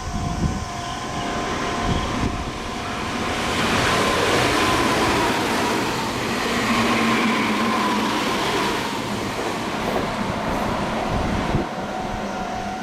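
Meitetsu electric train passing through the station at speed without stopping. The rush of wheels and motors builds over a couple of seconds, stays loud for about five seconds with a slightly falling whine, then eases. A steady warning tone sounds underneath.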